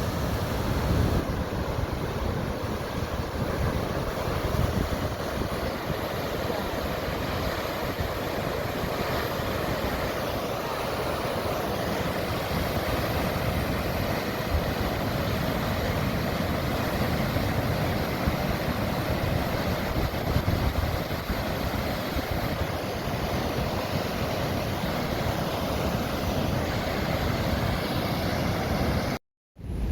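Heavy thunderstorm rain and gusting wind: a steady loud hiss with wind rumbling on the microphone, breaking off for a moment near the end.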